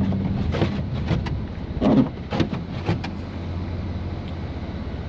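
BMW F80 M3's twin-turbo straight-six running with a steady low drone, several short sharp knocks or clicks in the first three seconds, the loudest about two seconds in.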